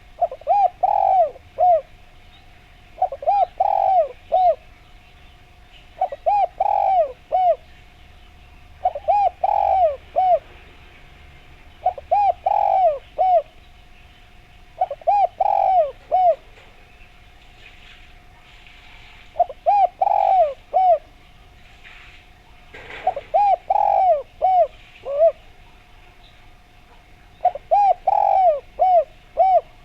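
Spotted dove (derkuku) cooing, about nine short phrases of quick arched coos each some three seconds apart, over a steady faint hum. It is a recording used as a lure to set other doves calling.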